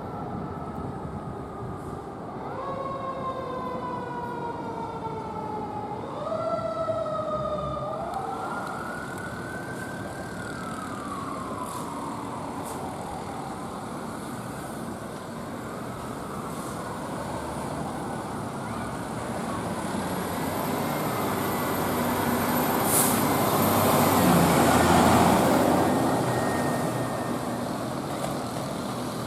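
Fire truck responding with its siren: the tone jumps up quickly and falls away slowly several times in the first ten seconds. The truck's noise then builds to its loudest about 24 seconds in as it passes, and fades after.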